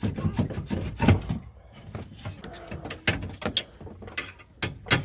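Ratchet wrench clicking with metal clanks and knocks of hand tools on parts in a truck's engine bay, irregular, with a quick run of clicks about three seconds in.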